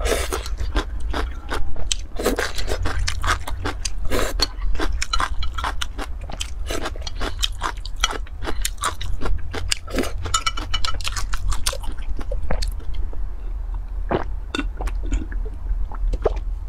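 Close-miked chewing of crunchy food, with dense crisp crunches and wet mouth sounds that thin out to scattered bites about twelve seconds in.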